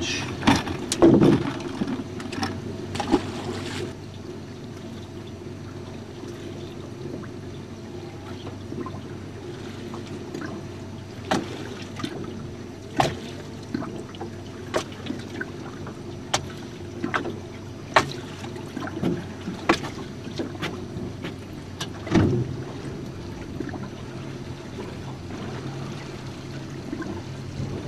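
A jon boat on open water, with water lapping and trickling at the hull over a steady low hum. Short, sharp knocks and clicks come every second or two through the middle stretch.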